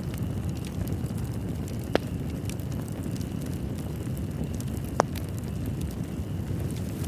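Wood fire burning in a fireplace: a steady low rumble with scattered light crackles and two sharper pops, about two seconds in and again about five seconds in.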